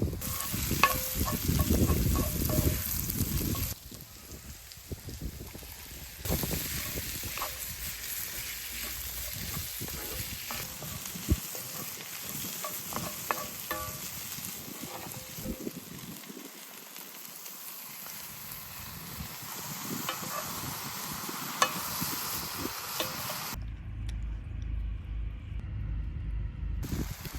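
Eggplant frying in a pan, sizzling steadily, with sharp clicks from a utensil stirring it. Near the end the sizzle stops and a low rumble takes over.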